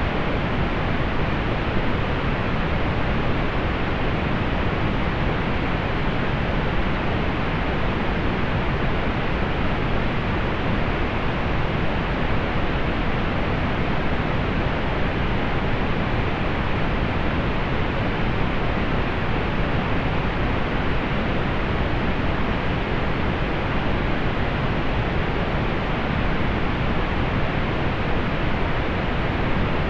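Steady synthetic pink noise: an even, unchanging hiss with most of its weight in the low and middle range, fading off above the upper treble.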